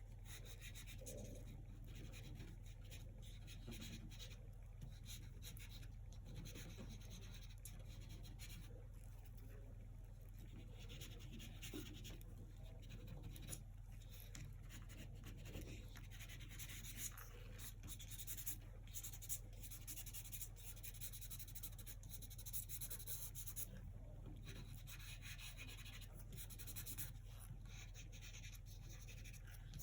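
Faint, irregular scratchy strokes of a paintbrush working acrylic paint over the painting surface, over a steady low hum.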